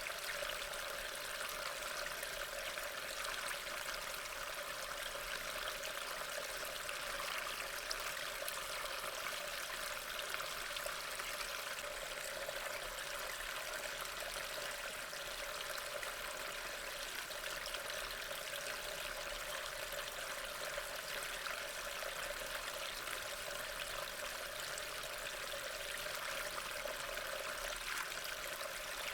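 Steady rain, a continuous even hiss of falling rain with no breaks or distinct drops standing out.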